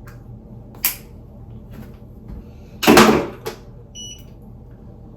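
A sharp click, then a loud brief knock or rustle a couple of seconds later, followed by a short high electronic beep.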